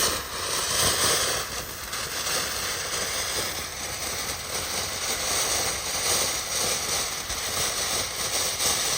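A vintage 1978–79 Red Lantern 'Flowers Dancing' Class C firework burning, giving off a steady hiss of spraying sparks with light crackling, strongest in the first couple of seconds.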